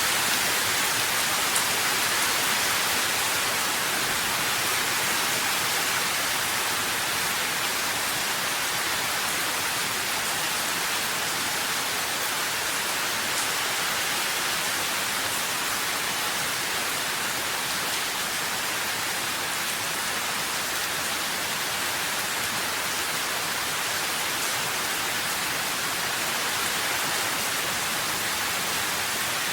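Steady rainfall: an even, unbroken hiss of rain with no distinct drops or thunder, its sound weighted toward the high end.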